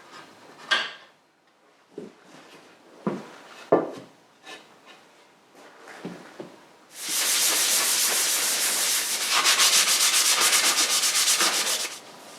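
An aluminium motorcycle engine casing being sanded to scuff it for paint. After a few seconds of knocks as the part is handled, a loud, steady rasp starts about seven seconds in and cuts off sharply just before the end.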